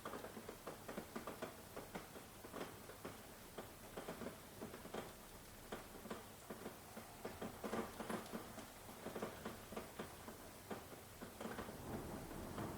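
Rain pattering, with many close drops tapping at an irregular pace.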